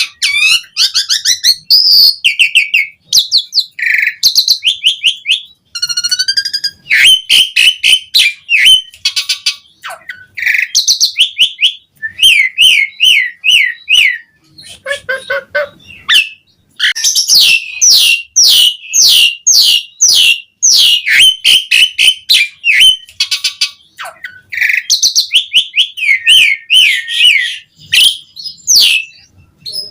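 Javan pied starling singing a fast, varied song of whistles, chirps and harsher notes in quick repeated runs, broken by short pauses.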